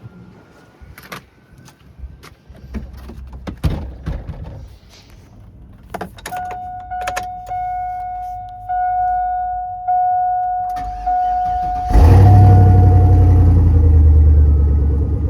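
Clicks and knocks, then a vehicle warning chime repeating steadily for several seconds. About twelve seconds in, the 2002 GMC Yukon's 5.3-litre V8 starts abruptly and runs with a loud, steady rumble.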